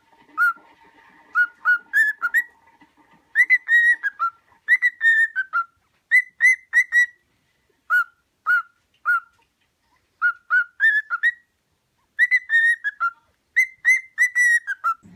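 A pet parrot whistling a tune: short, clear whistled notes in repeated phrases, stepping between a lower and a higher pitch, with brief pauses between phrases.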